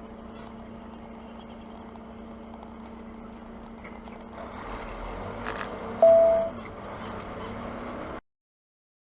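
Steady drone of a big rig's engine and road noise inside the cab, growing louder about halfway through. About six seconds in, a loud single-pitched tone sounds for about half a second, then the sound cuts out abruptly near the end.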